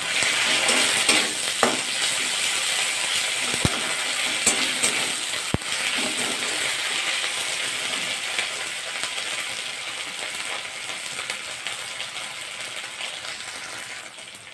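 Sliced onions, green chillies and whole spices sizzling in hot mustard oil in a steel kadai. A spatula scrapes and clicks against the pan in the first couple of seconds, then the sizzle fades gradually as the pan is left to fry.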